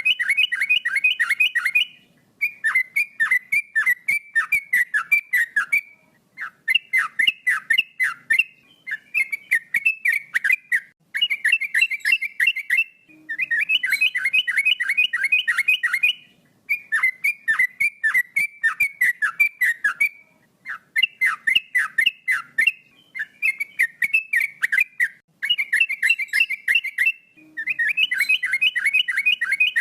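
Male yellow-vented bulbul (trucukan) singing on and on: phrases of rapid, quickly falling whistled notes, each a couple of seconds long, with short pauses between them.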